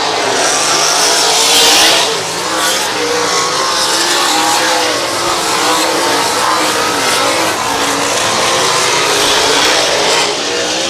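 A pack of dirt-track race cars running laps at speed, several engines wavering in pitch together; one passes close and loudest about two seconds in.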